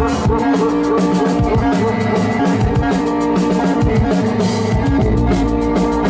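Live drum kit and synthesizer playing together: fast, busy drumming with kick and snare over held, wavering synth tones and a deep bass line.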